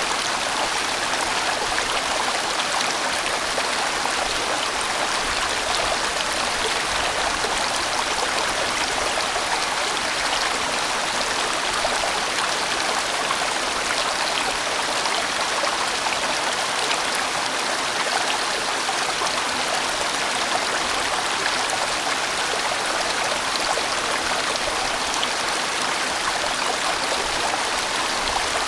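A sizable mountain stream rushing and splashing over rocks, a steady, even flow of water.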